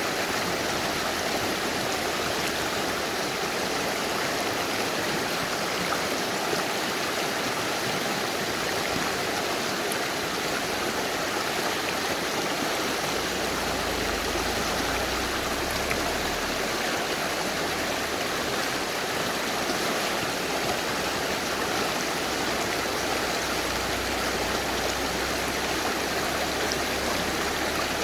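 Mountain river rushing over stones, a steady, even water noise.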